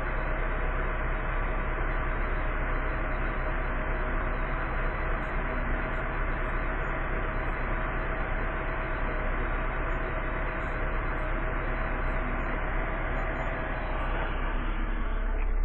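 BMW M43 four-cylinder petrol engine from a 2001 E46 318 running steadily at a constant speed, with no revving, during a test run before sale.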